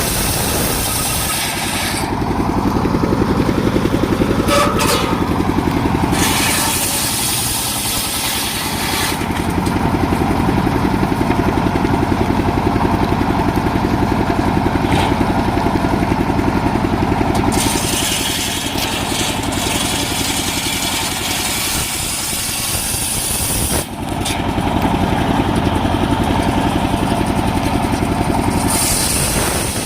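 Engine of a mobile circular sawmill running steadily while the saw works through a coconut-palm trunk. In several long stretches the sound thickens and the hiss drops away, then it returns, as the load on the saw changes.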